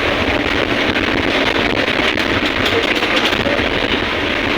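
Steady, unbroken rush of wind and heavy sea aboard a ship in a storm.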